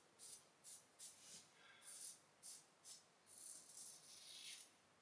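Faint scrape of a RazoRock Game Changer 84P safety razor with a Blue Bird blade cutting through lathered stubble in short, quick strokes, about two a second, then one longer stroke near the end.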